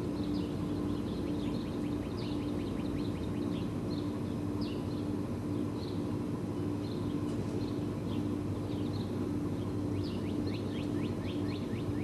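Songbirds chirping and twittering in a tree, with two quick runs of rapid descending notes, over a steady low hum.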